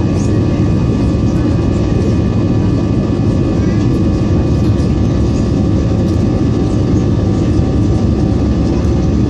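Airbus airliner's jet engines and airflow heard inside the passenger cabin: a steady, loud low rumble with a few faint, steady whining tones above it.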